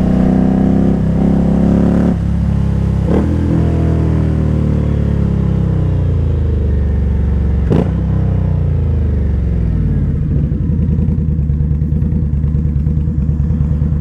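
Indian Scout V-twin motorcycle engine: its revs fall away over the first several seconds, with a few sharp cracks. It then settles into a lumpy, pulsing idle.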